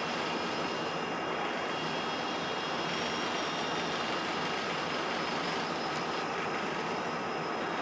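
Passenger express train running: a steady rolling roar with thin, steady high squeal tones from the wheels on the rails.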